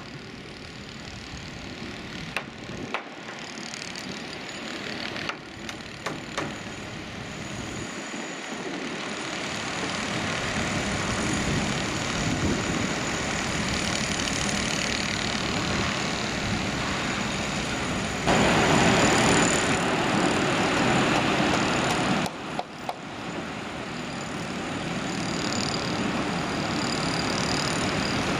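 Steady engine and traffic rumble of construction machinery and road vehicles, slowly growing louder, with a few sharp knocks in the first several seconds and a louder stretch of about four seconds in the second half.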